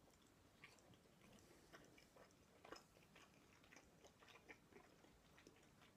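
Faint chewing of a mouthful of cheese: soft, irregular mouth clicks and small wet smacks.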